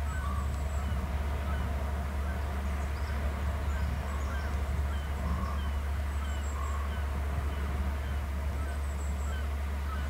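Steady low hum, with faint short bird calls repeated every second or so above it and a few lower calls in between.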